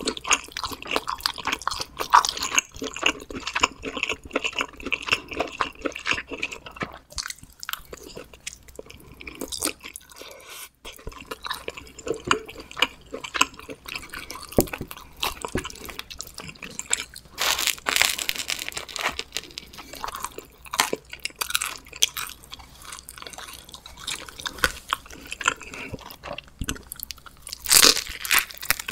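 A person chewing and biting homemade pizza: continuous crunching, chewing mouth sounds made of many short clicks, with louder bites about seventeen seconds in and again near the end.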